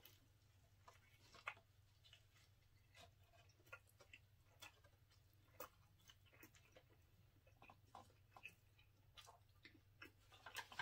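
Faint chewing of a burger: soft, irregular mouth clicks and smacks, over a low steady hum.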